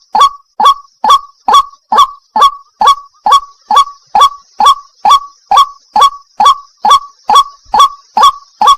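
White-breasted waterhen (the Malay 'wak-wak') calling: a steady, evenly spaced series of short harsh notes, a little over two a second, with no break.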